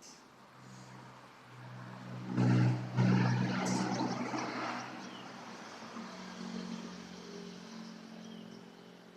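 A motor vehicle passing close by: its engine hum swells to loudest about two and a half seconds in, then fades away gradually.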